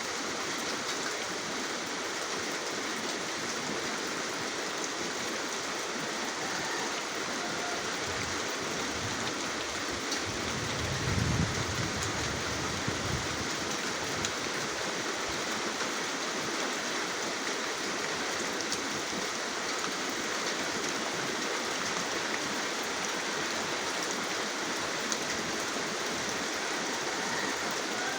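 Steady rain falling, an even hiss of drops. About ten seconds in a low rumble swells for a few seconds and fades.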